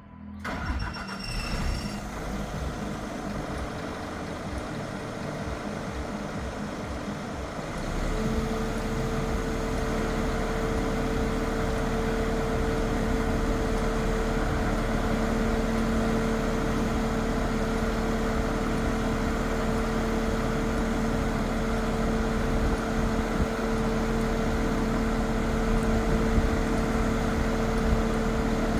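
Scania R500 truck's engine running. About eight seconds in it gets louder and a steady whine joins in, holding to the end.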